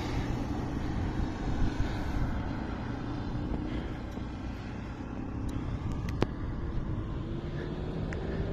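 A vehicle running with a steady low rumble, a faint tone that rises slightly near the end, and a few faint clicks.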